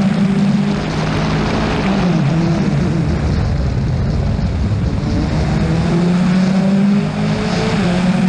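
Rally car engine heard from inside the car, running hard at a steady high note. For a few seconds in the middle the note drops and wavers with more low rumble, then it settles back to a steady high note.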